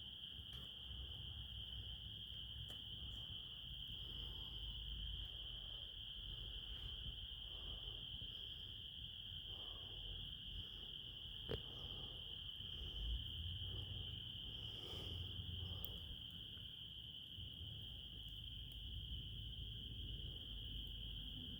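A chorus of crickets trilling in one steady, unbroken high-pitched drone, over a low rumble, with a single sharp crack about eleven seconds in.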